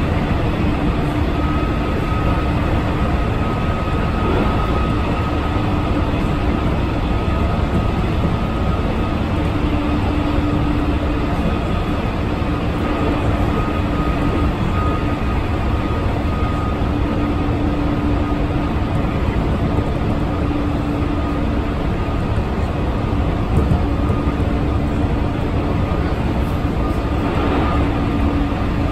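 Keihan limited express train running at speed, heard from inside the car: a steady rolling rumble with a constant hum.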